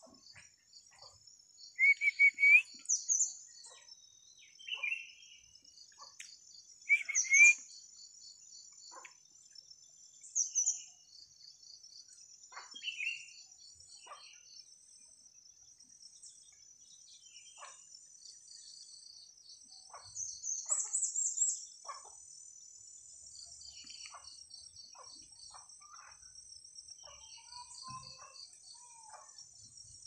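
Wild birds singing in short, loud phrases of gliding notes every few seconds, the loudest in the first few seconds, with a quick run of high notes about two-thirds in. A steady high-pitched insect trill runs underneath.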